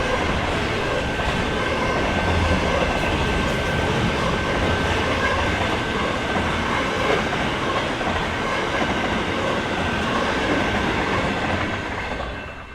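A train running past on the rails, a steady rolling noise with a thin high tone held through it; the sound falls away in the last second.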